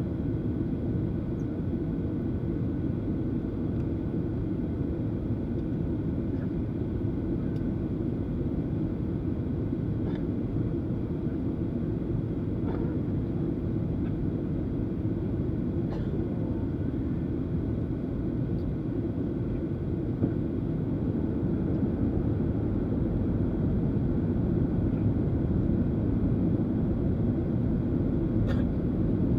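Steady low cabin rumble of a Boeing 737-800, its CFM56 jet engines running, with a faint steady hum and a few faint clicks and rattles. It grows slightly louder over the last few seconds.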